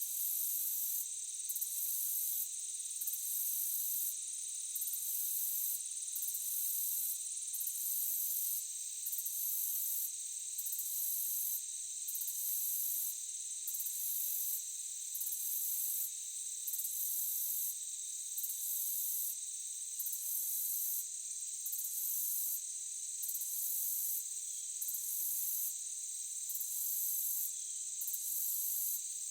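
Crickets chirping: a steady high trill, with a second, higher chirping that comes in regular bursts about every second and a half.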